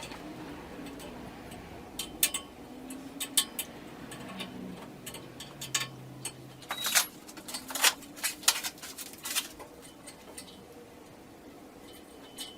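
Irregular light clicks and clinks of small hard objects, most of them between about two and ten seconds in.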